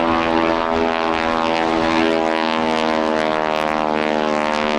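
North American NA-64 Yale flying past, its radial piston engine and propeller giving a steady drone of evenly spaced tones that holds one pitch.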